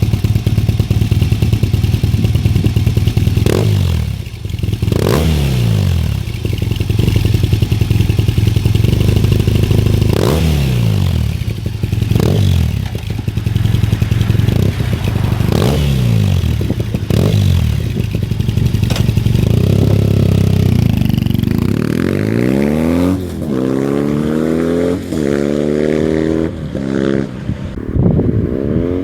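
Yamaha XTZ-750 Super Ténéré parallel-twin engine breathing through an aftermarket DominatoR exhaust, idling and revved with repeated throttle blips that rise and fall. From a little past two-thirds of the way in, the revs come in a quicker run.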